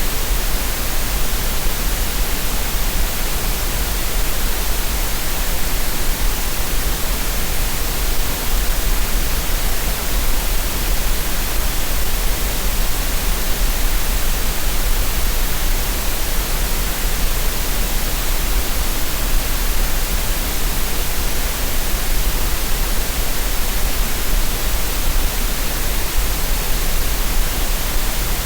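Green noise: a steady, unchanging synthetic hiss spread across the whole range, with a strong deep rumble at the very bottom.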